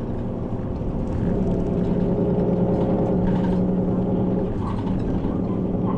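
City route bus's diesel engine running under way, heard from inside the passenger cabin. It is a steady hum that grows stronger about a second in and then holds level.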